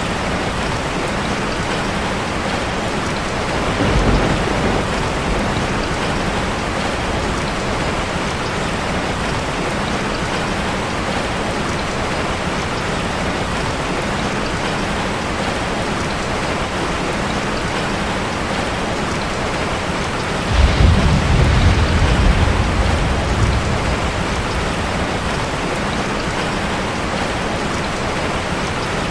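Steady rain drumming on a metal roof. A low rumble of thunder comes about four seconds in, and a longer, louder rumble of about three seconds comes some twenty seconds in.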